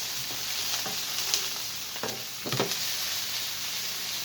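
Sliced onions sizzling in olive oil in a skillet, a steady frying hiss, with a few short knocks from stirring in the pan.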